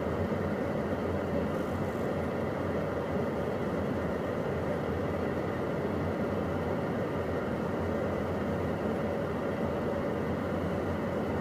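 Steady cockpit noise of a Beechcraft Premier 1A business jet in the climb: airflow and engine drone with a faint steady tone, unchanging throughout.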